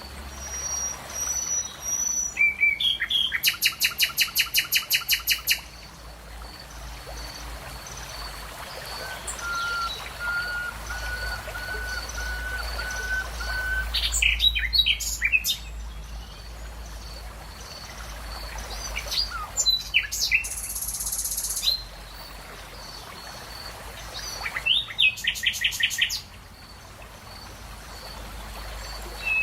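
Wild birds singing and calling, with several different phrases. A fast trill of about a dozen quick notes comes a few seconds in, a long steady whistled note follows, and there are clusters of quick rising and falling chirps and a shorter trill near the end.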